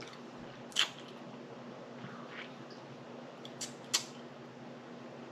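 Eating sounds: three short sharp clicks of lip smacking and chewing, over a faint steady hum.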